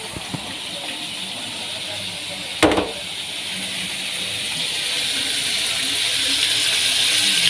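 Food frying in a pan: a steady sizzling hiss that slowly grows louder, with one knock about two and a half seconds in.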